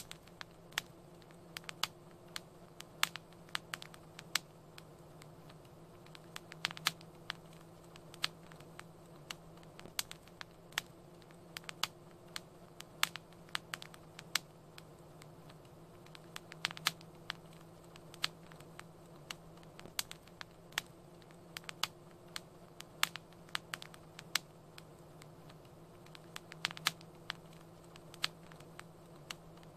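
Wood fire crackling in a fireplace: sharp irregular pops and snaps, several a second, over a low steady hum.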